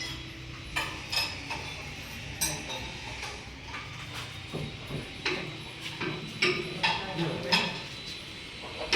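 Irregular metallic clinks and knocks of hand tools and parts being handled, about a dozen sharp hits spread unevenly.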